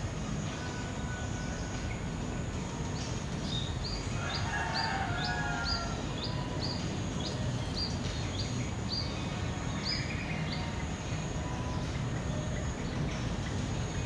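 Songbirds calling in the early morning over a steady low background noise. One bird repeats a short, sharply rising high note about twice a second for several seconds, and a brief burst of lower chirping comes in about four seconds in.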